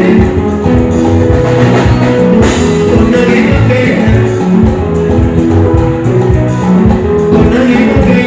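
Live band music with a steady beat: drums, bass and guitar playing loudly through the festival sound system.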